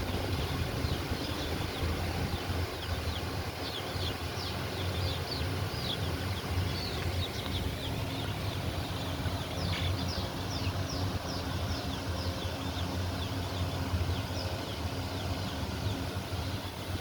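Small birds cheeping: many short, high chirps, each falling in pitch, come in quick succession and die away near the end, over a steady low rumble.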